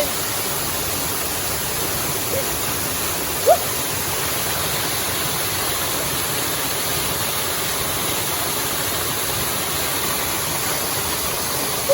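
Steady, even rush of a waterfall's falling water. A brief, short rising sound stands out about three and a half seconds in.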